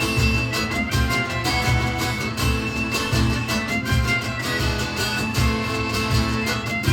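Live band playing an instrumental break with no vocals: a steady drum and bass beat under a held melody line.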